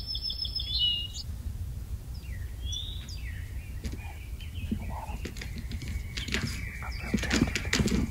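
Wild birds chirping and calling: short high trills at first, then a few falling whistled notes. About six and a half seconds in comes a louder, rapid rattling burst of calls.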